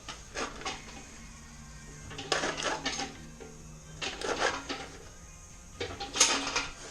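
Hammer striking sheet steel in short bursts of quick metallic taps, panel-beating a damaged body panel back into shape. The loudest burst comes near the end.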